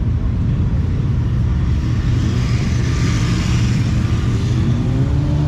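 Motorcycle engines running, a loud steady low rumble, with a rushing sound that swells and fades around the middle.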